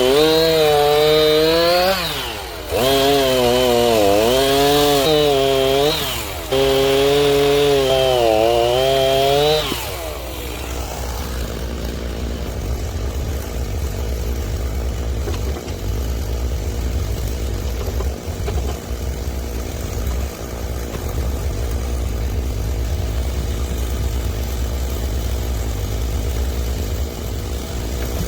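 Stihl chainsaw running at high revs through wood in three stretches, its pitch wavering under load, with brief drops between cuts. About ten seconds in it falls to a steady, lower engine sound, like the saw idling.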